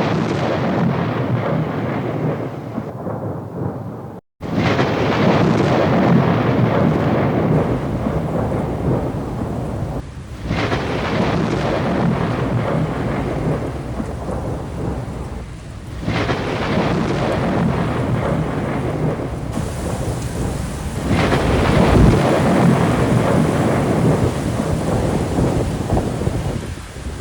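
Thunderstorm with heavy rain: long rolls of thunder swell and fade over several seconds each, one after another, over the rain. The sound cuts out for a moment about four seconds in.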